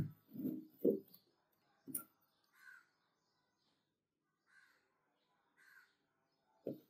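A few soft knocks and a sharp click in the first two seconds, then a bird calling faintly three times.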